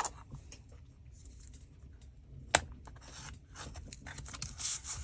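Paper being handled and rustled, with light ticks and one sharp click about two and a half seconds in.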